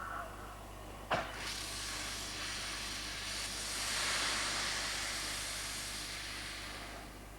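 Steam locomotive, an LNER K4, letting off steam: a sharp knock about a second in, then a loud hiss of escaping steam that swells and slowly dies away.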